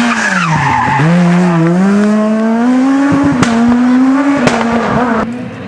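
S1600 rally car's high-revving 1.6-litre four-cylinder engine at full attack: the revs drop sharply under braking about a second in, then climb steadily as the car accelerates hard, with two sharp cracks later on. The sound falls away in level near the end.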